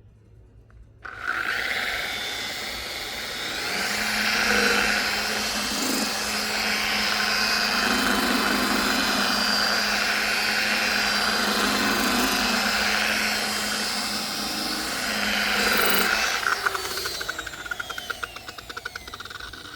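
Power buffer spinning a pad against a plastic headlight lens to remove the yellowed oxidation. It starts about a second in, runs steadily with a held motor tone, stops around three-quarters of the way through and spins down with a fast ticking.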